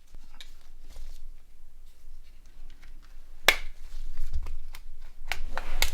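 Small clicks and taps of hands handling plastic phone parts during disassembly. The clicks are scattered, with a sharper one about three and a half seconds in and several more near the end, over a low handling rumble.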